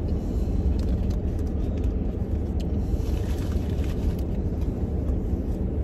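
Steady low rumble of a car's engine idling, heard inside the cabin, with a few faint clicks and taps over it.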